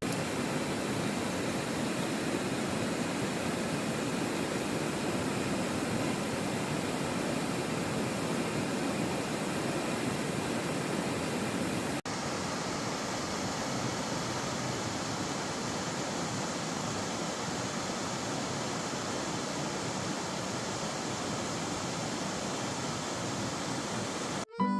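Mountain valley stream rushing over rocks: a steady rush of water, its tone shifting abruptly at a cut about halfway through. Music comes in at the very end.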